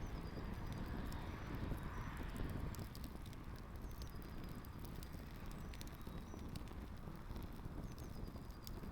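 Campfire crackling with many irregular sharp pops as shoes burn in it, over a steady low rumble.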